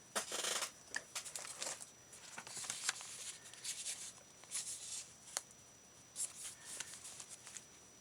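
Paper and washi tape being handled on a craft table: irregular rustles and scrapes with a few sharp clicks.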